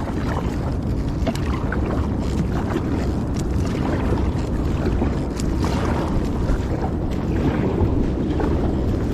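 Kayak paddle in the water: small, irregular splashes and drips, over a steady low rumble of wind on the microphone.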